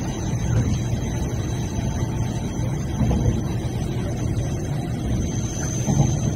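Cabin noise of a moving MTR East Rail Line electric train: a steady low rolling rumble with a faint steady high whine.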